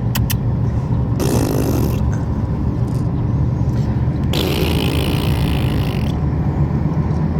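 Steady low road and engine hum inside a moving car, with two stretches of hissing noise, one about a second in and a longer one about four seconds in.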